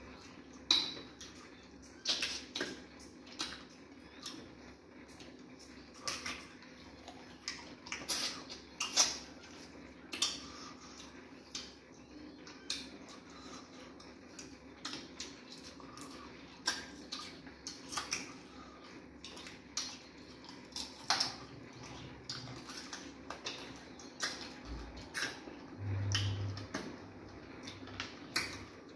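Close-miked eating sounds of fufu and banga soup eaten by hand: irregular wet mouth clicks and smacks of chewing.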